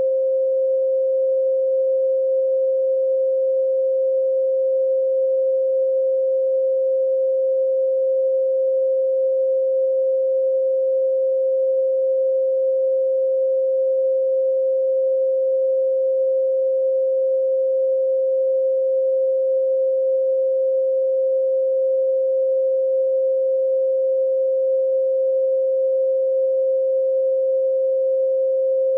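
A 528 Hz pure sine tone, the so-called solfeggio healing frequency, held steady at one unchanging pitch.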